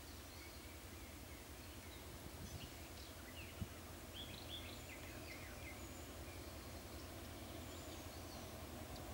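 Small birds chirping several times over a faint, steady outdoor background, with a single sharp click about three and a half seconds in.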